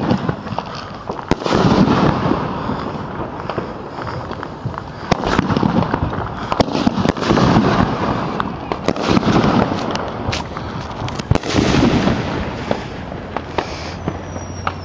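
Consumer fireworks going off: a string of sharp bangs and pops with several crackling volleys, each a second or two long.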